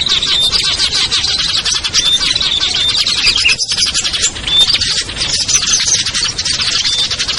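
Dense chorus of many small songbirds chirping and twittering over one another without a break, with short clear whistled notes standing out now and then: a mixed lure recording for small birds.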